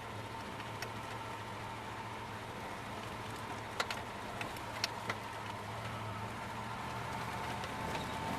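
1992 Dodge Dakota pickup running on wood gas, heard driving along: a steady engine drone and road noise with a thin steady whine. A few sharp rattles or knocks come about four to five seconds in.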